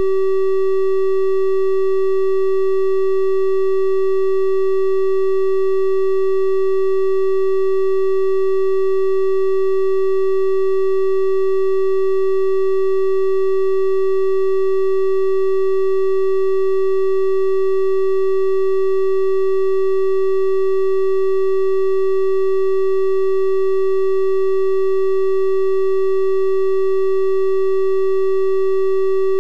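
A steady electronic triangle-wave tone at 384 Hz, one unchanging pitch with faint higher overtones, held without a break.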